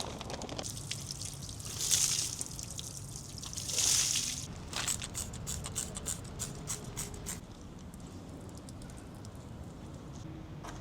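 Water sprayed onto a motorcycle during a wash: two short hissing sprays about two and four seconds in, then a few seconds of dripping and pattering.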